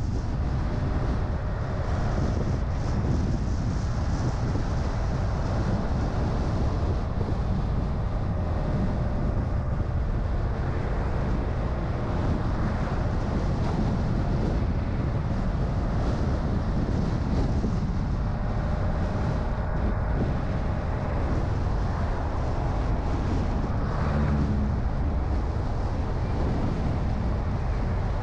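A car driving: a steady rumble of engine, tyres on the road and wind, with a short pitched sound about 24 seconds in.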